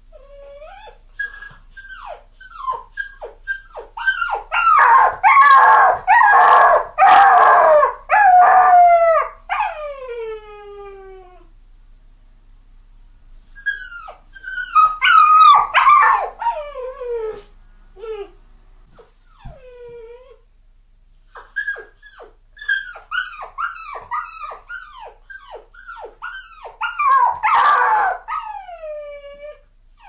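Puppy crying in three bouts of high whines and yips, most of them falling in pitch. The first bout is the loudest, with several long, drawn-out cries a few seconds in. Two later bouts are mostly rapid short yelps with a long falling cry near the end. This is the distressed crying of a puppy left alone in a crate.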